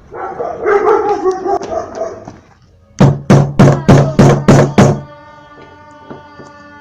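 A dog barking: a rough, noisy stretch at first, then a fast even run of about seven barks about three seconds in, followed by faint steady held tones.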